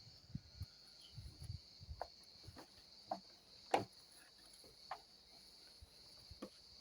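Scattered light clicks and taps as parts of a model airplane are handled, with the loudest tap about midway. A faint, steady, high-pitched chirring runs underneath throughout.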